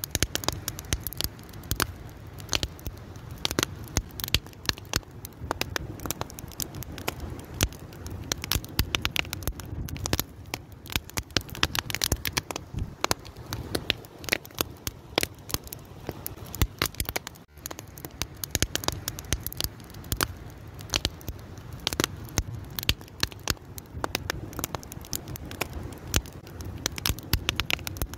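Open fire crackling, with many irregular sharp pops and snaps over a steady low rumble of flames.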